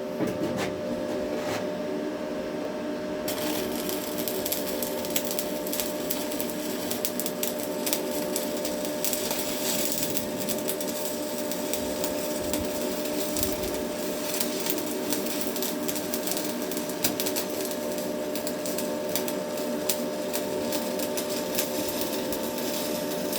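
Stick-welding arc crackling steadily as a Hilco electrode burns, over a steady hum. The crackle strikes up about three seconds in.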